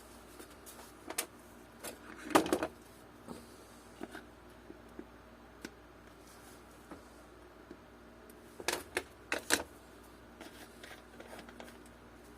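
Small hardware for the balance bike's wheel shafts (nuts, washers, axle shafts) being handled: scattered light clicks and clinks, with a short clatter about two seconds in and another, in a few quick knocks, around nine seconds in.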